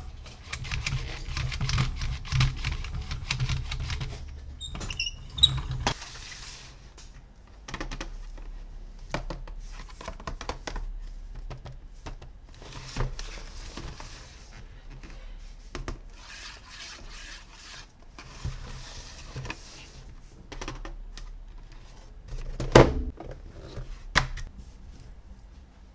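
Toy packaging and plastic toys being handled and unboxed: crinkling, tearing and scratching with many small clicks and taps, and a sharper knock about 23 seconds in.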